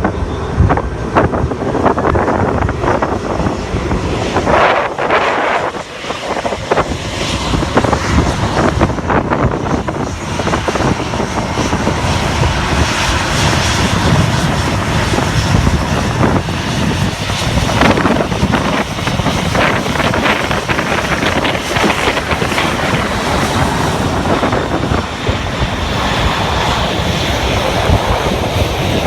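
A Boeing 747's four jet engines at takeoff power: a loud, steady, dense roar that dips briefly about six seconds in.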